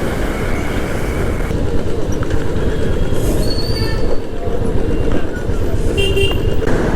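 Steady rush of wind and road noise from a motorcycle being ridden at speed.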